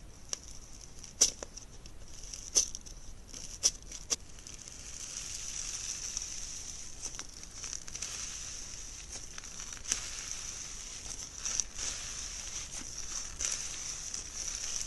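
Slime being pressed and worked by hand: four sharp pops in the first few seconds, then a steady crackling fizz with scattered small clicks.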